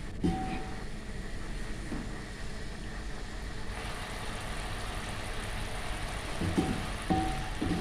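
Chicken, garlic and onion frying in soy sauce in a pan, a steady sizzle with a few short knocks near the end.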